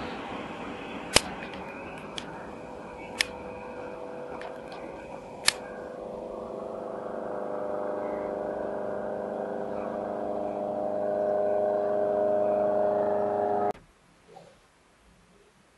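High-speed electric passenger train running through a station. A steady hum of several tones grows louder as it comes closer, with three sharp clacks in the first six seconds. The sound cuts off abruptly near the end.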